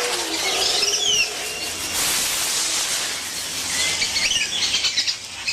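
Rainforest ambience: a steady high hiss with high chirps and short falling whistles. There are two falling whistles about a second in and a quick run of chirps near the end.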